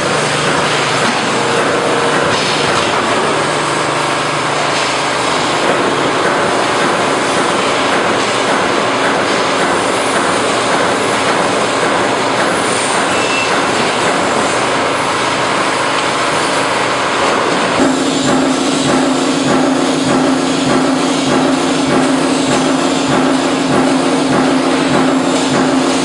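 Steady, loud workshop machinery noise from metal fabrication. A low steady hum joins in about two-thirds of the way through.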